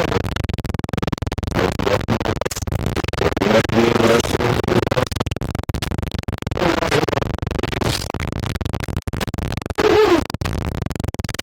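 Loud, choppy TV static with garbled, distorted fragments of pitched broadcast sound breaking in and out, cut by frequent crackles and brief dropouts.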